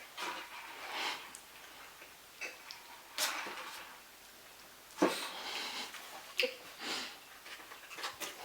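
Person eating fast: irregular chewing and mouth noises, with short scattered clicks and rustles.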